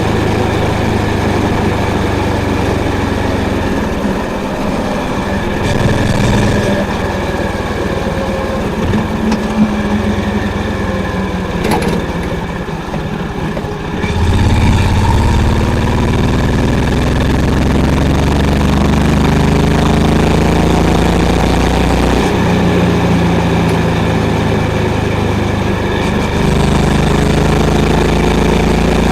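Honda CB350's air-cooled single-cylinder engine and exhaust while riding. The engine eases off and runs quieter for the first half, with a sharp click near the middle. Then it pulls harder and louder, its pitch climbing through the revs and dropping back at gear changes.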